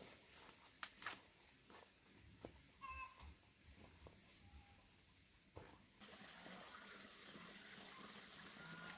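Faint steady high-pitched insect trilling, with scattered light knocks and clicks and a short chirp about three seconds in.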